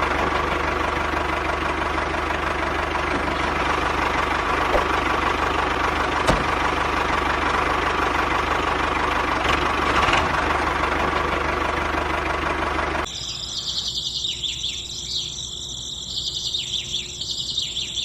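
A small homemade machine running with a steady rattling hum. About thirteen seconds in it cuts off abruptly, leaving a thinner, higher sound with a steady high tone and chirp-like calls.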